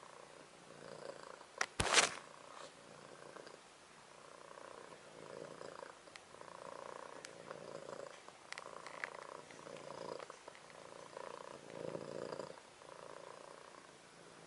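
American Shorthair kitten purring softly, in slow rhythmic swells about once a second. A sharp click sounds about two seconds in.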